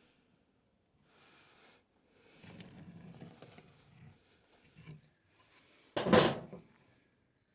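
Plywood pieces being handled and shifted, with soft rubbing and knocks, then a brief loud wooden bump about six seconds in.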